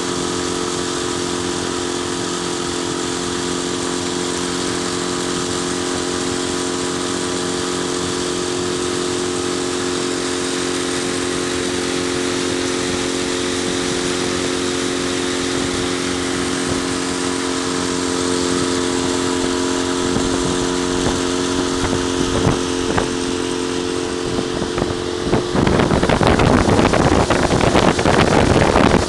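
An engine idling steadily at an even pitch; about 25 seconds in, loud wind buffeting on the microphone comes in and covers it.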